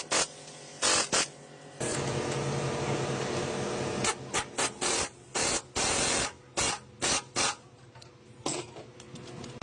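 Repeated short bursts of hissing spray, a dozen or so, each a fraction of a second long, some in quick pairs. A steady hum runs under the bursts from about two seconds in.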